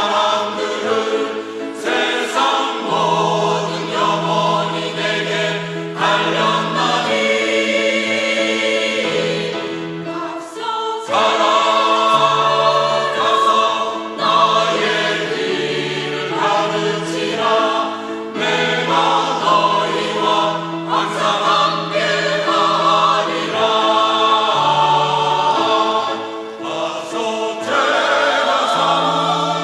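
Church choir singing an anthem in several parts, with held low notes under the voices.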